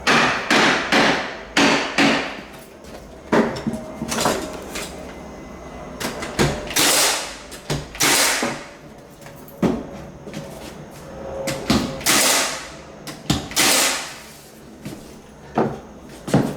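Irregular hammer blows and knocks on wood as hardwood flooring boards are fitted into place. Some strokes are sharp single hits and others are longer, scraping-sounding bangs.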